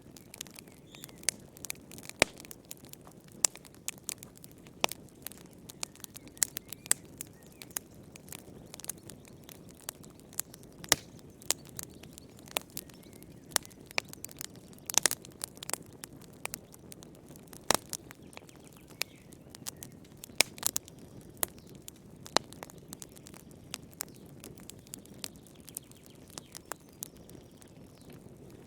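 Wood fire burning in a fireplace: irregular sharp crackles and pops, several a second, over a soft low rumble of flame.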